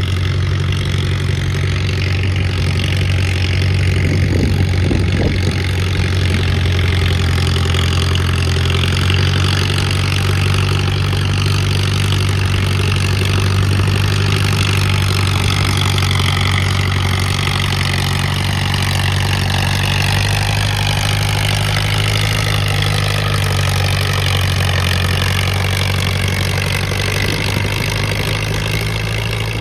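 Pulling tractor's engine running under load as it drags a weight sled, a loud steady low drone with a higher whine that slowly falls in pitch over the second half.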